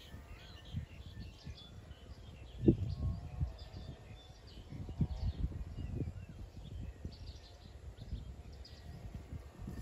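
Birds chirping and whistling in the background over low rustling and scattered thumps, the loudest thump about two and a half seconds in.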